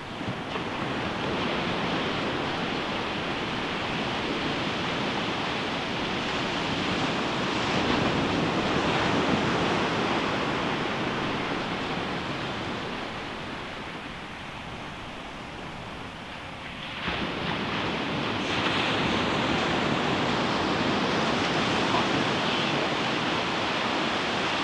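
Ocean surf: waves breaking and washing up a beach in a continuous rush. The surf swells, eases off for a few seconds, then a wave crashes about two-thirds of the way through and the wash stays loud after it.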